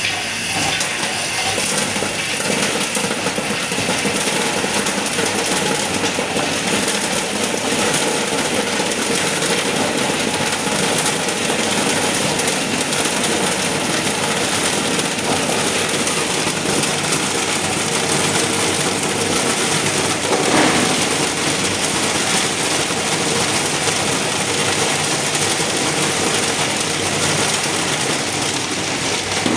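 Refrigeration machine running with only one of its two compressors on, a loud steady mechanical noise with a brief louder swell about twenty seconds in.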